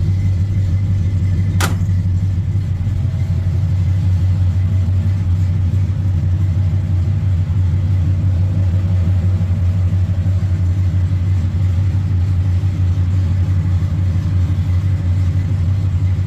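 1971 Chevrolet C20 pickup's engine idling steadily, with a single sharp click about a second and a half in.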